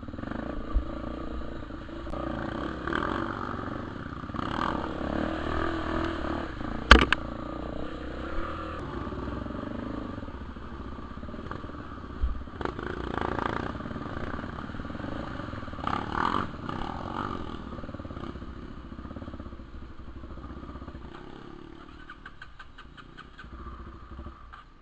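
Trail motorcycle engine running and revving in repeated swells, with one sharp knock about seven seconds in. Near the end it drops to a quieter, evenly ticking run.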